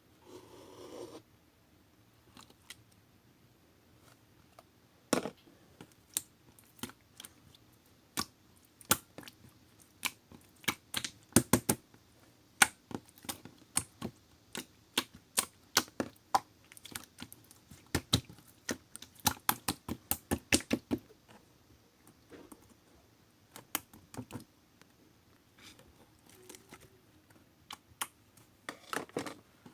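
Slime being squeezed and pressed by hand, making sharp clicking pops from trapped air. The clicks come in irregular runs of several a second, with short pauses between.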